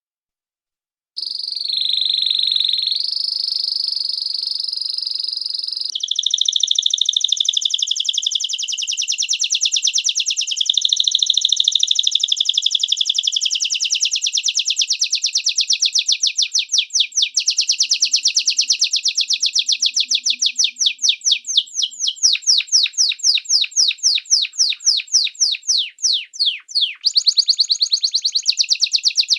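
A small songbird singing long, high-pitched trills after about a second of silence. The notes start as a fast continuous warble, then space out over the second half into a string of separate rapid chirps.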